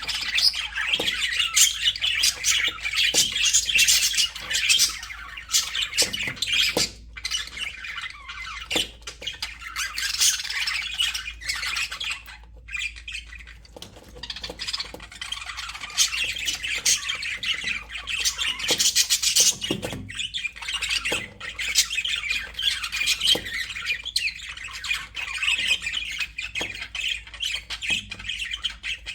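A flock of budgerigars chattering together, many birds chirping, warbling and squawking at once, with a brief lull about halfway through.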